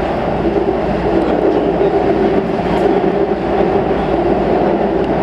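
Steady running noise of a Keikyu New 1000 series electric train heard from inside the car as it travels at speed: a continuous rumble of wheels on rail and running gear.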